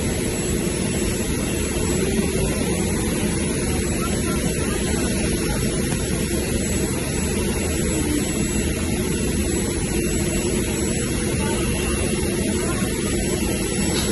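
Aircraft engine running steadily, a constant drone with a thin high whine.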